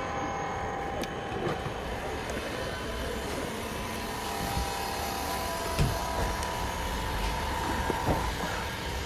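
Steady mechanical hum with a faint steady whine, broken by a few short knocks and clicks.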